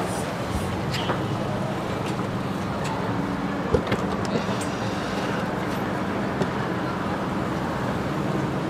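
BMW sedan's engine idling with a steady hum, with a few sharp clicks: one near the start, one about a second in and one near four seconds in.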